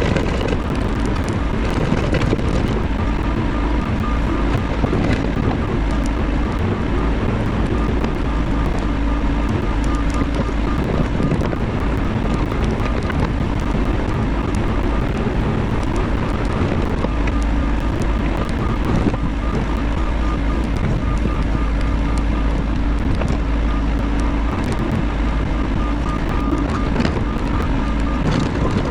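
Bobcat E50 mini excavator's diesel engine running steadily at working speed, with a faint repeating high tone over the low rumble.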